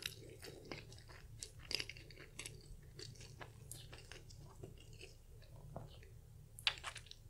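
Close-up chewing of a Portuguese egg tart: many small crackles of the flaky pastry crust, with a louder crunch near the end.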